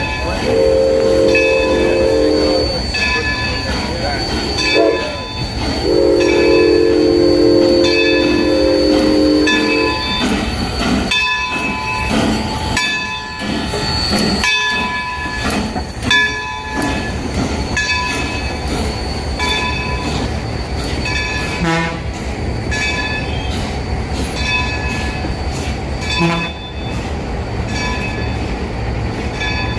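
A passing train sounds its horn twice, a short blast and then a longer one of about four seconds. A bell rings steadily about once a second over the low rumble of the train going by.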